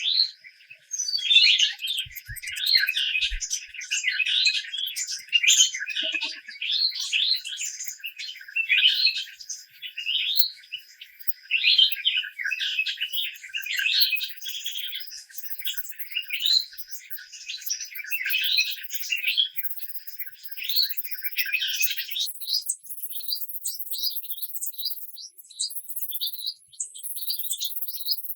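Birds singing, with fast chirpy phrases repeated about every second and a half; a little after two-thirds of the way through, the song changes to shorter, thinner, quicker chirps.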